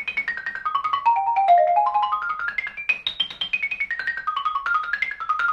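Xylophone struck with mallets, playing a fast run of single notes, roughly eight to ten a second, in an arpeggio exercise that climbs and then steps back down, several times over.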